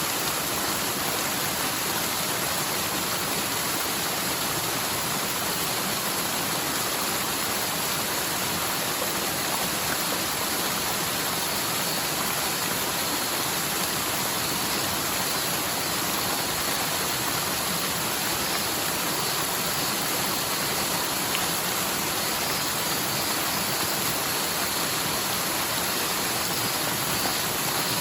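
Forest mountain stream running full after typhoon rain, water rushing steadily downhill; the stream is normally almost dry.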